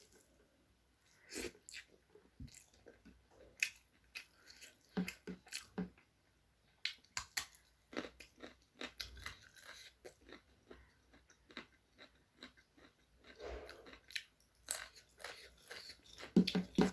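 Close-up chewing and biting of chicken leg curry with rice: irregular mouth clicks and crunches.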